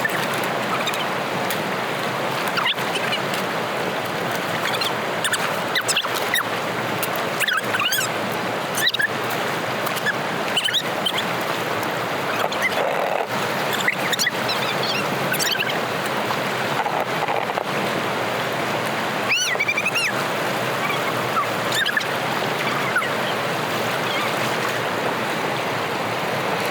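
Water rushing steadily through a blocked drainage after heavy rain, with frequent splashes and gurgles over the flow.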